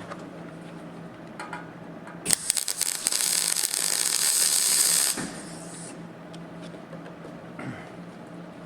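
MIG welder laying a tack weld on the steel sill: a crackling arc of about three seconds, starting a couple of seconds in and stopping sharply. A steady low hum sits under it.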